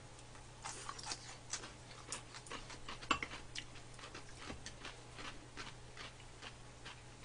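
Close-miked eating: irregular wet mouth clicks and smacks of people chewing soft rice cakes, several a second and loudest about three seconds in, over a faint steady low hum.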